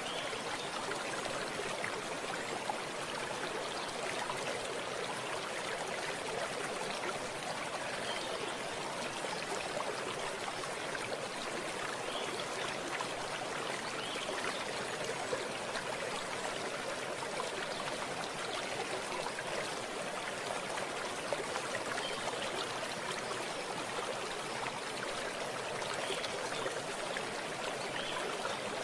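Running water flowing steadily, like a stream, with an even rushing sound that does not change.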